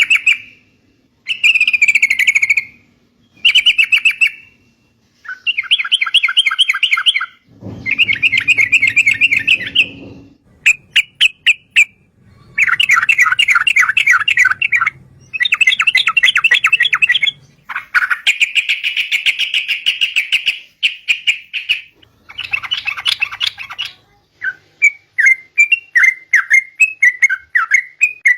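Yellow-vented bulbul (cucak trucuk) singing: a series of rapid, bubbly phrases, each a second or two long with short pauses between them, then quick separate chirps near the end.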